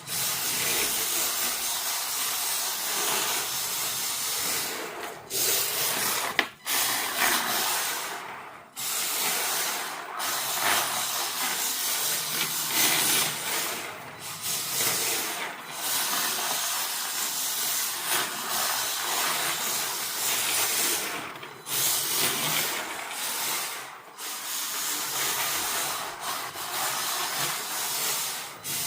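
WLtoys K969 RC drift car's hard plastic drift tyres sliding and scrubbing across a smooth floor, a continuous hiss broken by several short pauses as the car changes direction.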